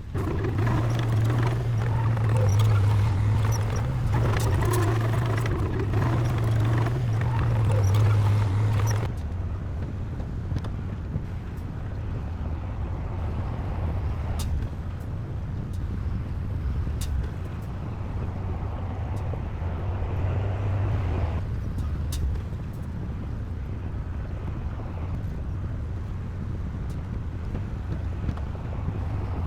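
Heavy diesel earthmoving machinery running: a loud, steady engine drone that drops off abruptly about nine seconds in to a quieter engine sound, with a few sharp clicks scattered through.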